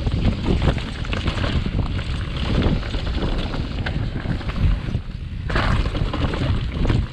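Wind buffeting the microphone while a mountain bike runs downhill over a bumpy trail, its tyres rumbling and parts rattling in rapid clicks. The noise dips briefly and surges again about five and a half seconds in.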